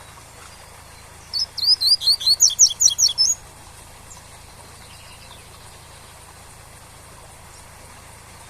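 Double-collared seedeater (coleiro) singing one phrase of its tui-tui song: about ten sharp, quick whistled notes over roughly two seconds, starting a little over a second in. It sits over a steady rushing waterfall noise.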